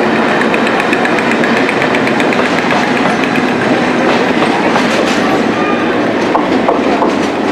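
Empty steel bogie flat wagons of a freight train rolling past close by: steady, loud wheel and rail noise, with quick regular clicking over the rail joints and a few sharper clanks in the second half.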